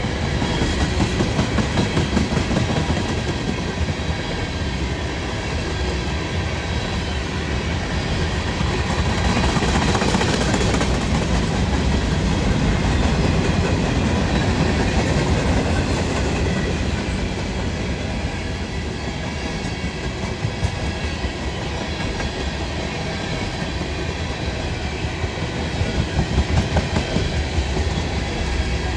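Freight cars of a long freight train rolling past, a steady rumble with wheels clacking over rail joints, the clacks sharper in the last several seconds.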